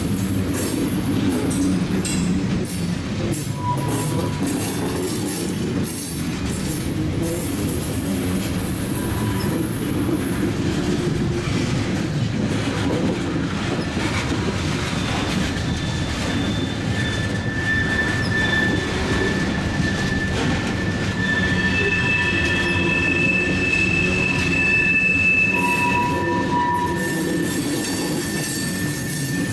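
Long CN freight train of tank cars rolling steadily over the rails. High thin wheel squeals come and go, mostly in the second half.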